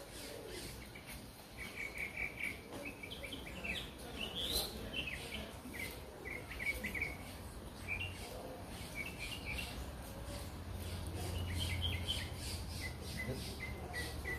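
Small birds chirping in short, high notes, clusters of quick chirps again and again, over a low steady rumble.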